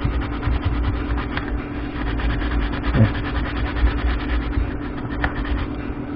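Stiff chain brush scrubbing a kerosene-soaked 525 motorcycle chain: a steady, rapid scratchy rubbing of bristles over the links, over a constant low hum.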